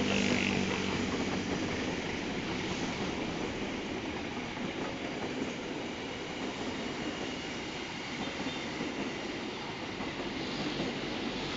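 Train coaches rolling past on the rails: a steady rumble and rattle of wheels and bogies that goes on without a break as the carriages go by.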